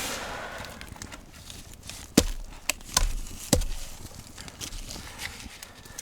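Four sharp knocks in quick succession, starting about two seconds in, after a softer rustling noise at the start.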